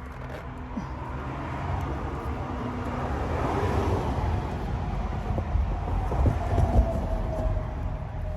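A vehicle passing by: a rushing noise that builds to a peak through the middle, with a tone that falls in pitch as it goes away near the end.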